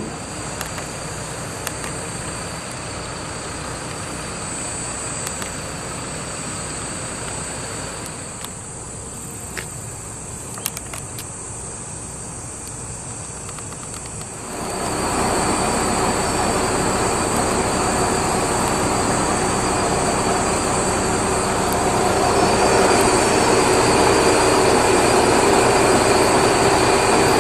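Tsugaru Railway diesel railcar idling, then about halfway through its engine opens up and runs louder and steadily as the train pulls away. A steady high insect trill runs throughout.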